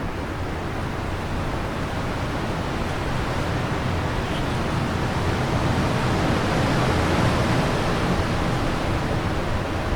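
Wind blowing in a steady rush that swells in a gust about seven seconds in, then eases off.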